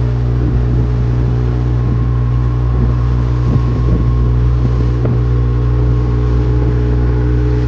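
Vehicle engine running steadily: a constant low drone with a few steady tones above it.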